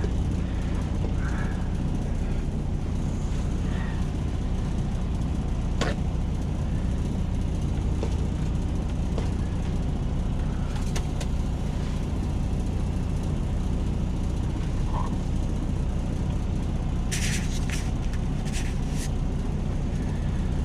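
Semi-truck diesel engine idling with a steady low hum, with a few light clicks and a quick run of them near the end.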